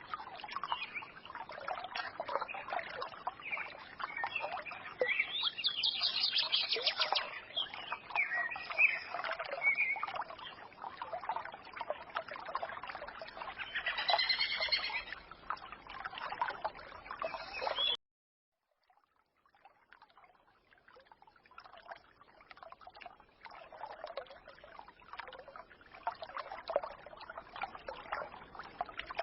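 Small forest stream trickling, with songbirds chirping and twittering over it. A little past halfway the sound cuts out abruptly for about a second, then the trickling comes back quieter, with only scattered calls.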